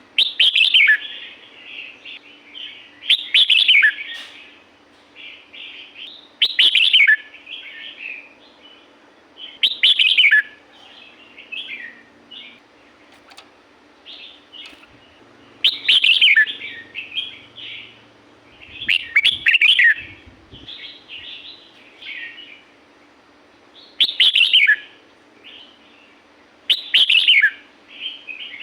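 Red-whiskered bulbul singing: about eight loud, short whistled phrases a few seconds apart, with softer chattering notes in between.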